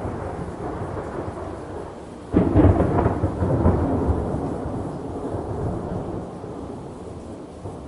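Thunder over steady rain: a roll of thunder breaks in suddenly about two seconds in and fades slowly over several seconds, over a constant hiss of rain.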